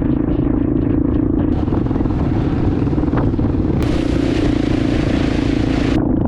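Motorbike engine running at steady revs while riding, a constant drone that holds one pitch throughout.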